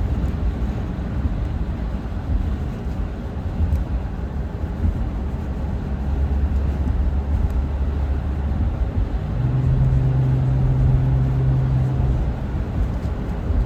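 Strong wind rumbling and buffeting the microphone during a snowstorm. A steady low hum joins it a little past the middle for a few seconds.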